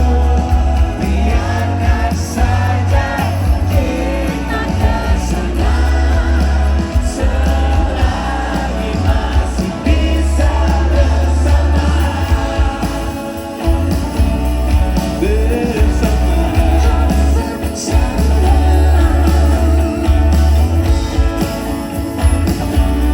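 Live pop-rock band playing at a concert, recorded on a phone from the audience, with loud pulsing bass and singing.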